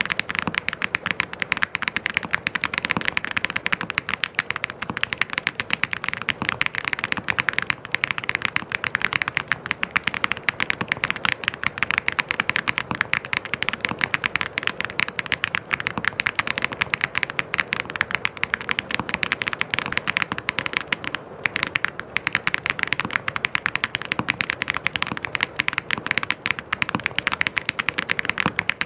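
Fast, continuous typing on a mechanical keyboard, a dense stream of key clicks and clacks with a brief pause about 21 seconds in.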